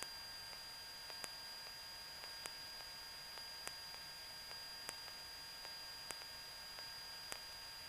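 Faint electrical hiss with a thin, steady high whine and a sharp tick about every 1.2 seconds: line noise on the cockpit audio feed between radio calls, with no engine sound coming through.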